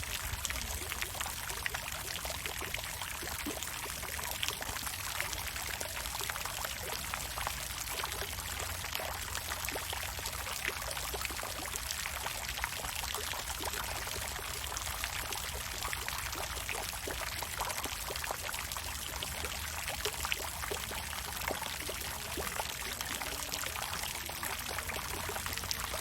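Water fountain splashing steadily: a dense, even rush of falling water made of many small droplet splashes, with a low rumble underneath.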